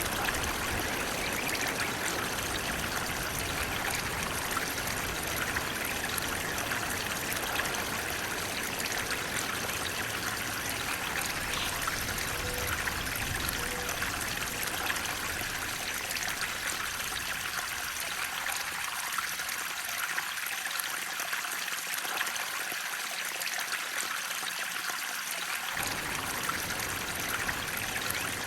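Flowing water running steadily as an even, continuous rush. In the second half the deep low part of the sound drops away, then comes back suddenly near the end.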